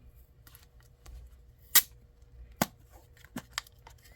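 A few sharp, separate clicks of small hard parts being handled and set down, with light rustling between them; the loudest two come just under two seconds in and about a second after that.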